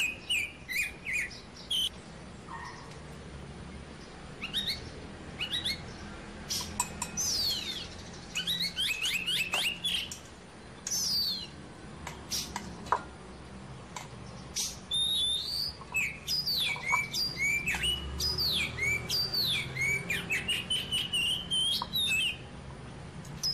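Small birds chirping and calling over and over in quick rising and falling notes, busiest in the second half. A few light clicks come between them.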